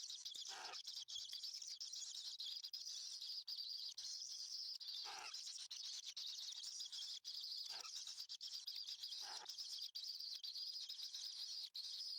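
Birds chirping: a continuous high-pitched chirping, with four separate calls that slide downward in pitch, about half a second, five, eight and nine seconds in.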